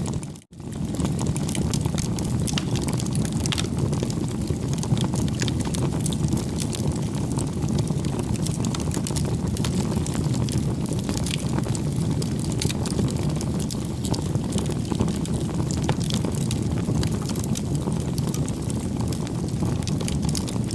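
Wood fire crackling steadily, with irregular small pops and snaps over a low rushing burn; the sound cuts out briefly about half a second in.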